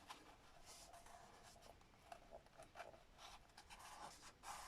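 Near silence with faint scattered rubbing and scratching of card and paper being handled and pressed down.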